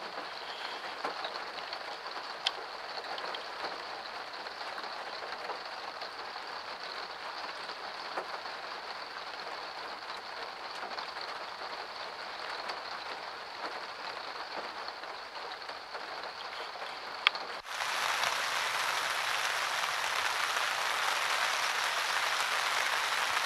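Steady rain falling, with a few single drops ticking out now and then. About 18 s in it cuts abruptly to a louder, hissier steady noise.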